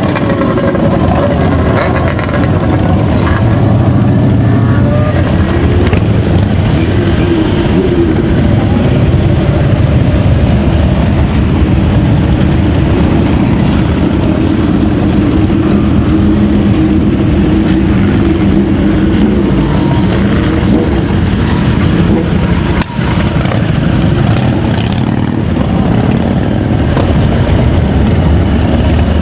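Loud vehicle engines running continuously, motorcycles and cars driving past, with the engine pitch shifting up and down.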